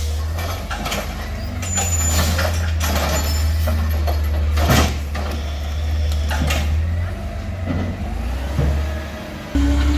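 Garbage truck's diesel engine running with a steady low hum, with scattered mechanical knocks and one loud bang a little under five seconds in. The engine sound changes abruptly near the end.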